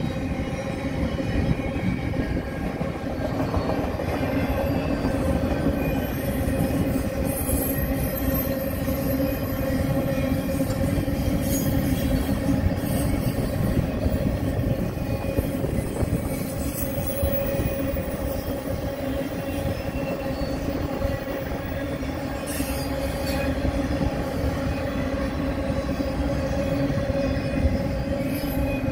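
Freight train of tank cars and enclosed autorack cars rolling steadily past: a continuous rumble of steel wheels on the rails, with a steady tone running through it and a few sharp clicks.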